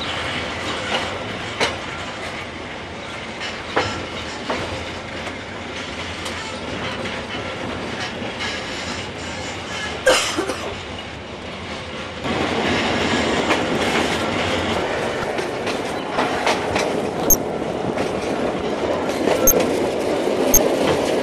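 750 mm narrow gauge diesel train running on the rails, a steady rumble with sharp clicks from the wheels here and there. It gets louder about twelve seconds in.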